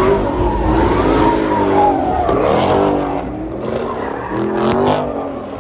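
A car engine revving up and down repeatedly while the car spins donuts, its rear tyres spinning and squealing against the asphalt.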